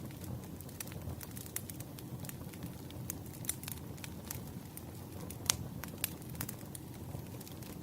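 Campfire burning, a low steady rumble of flames with sharp, irregular crackles and pops from the burning wood, one louder pop about five and a half seconds in.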